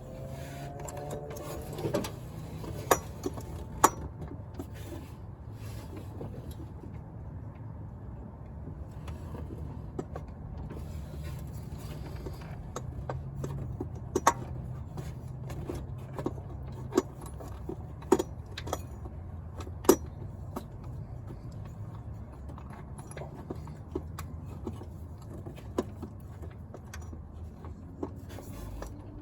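Irregular metallic clicks and clinks of hand tools on the vehicle over a steady low hum.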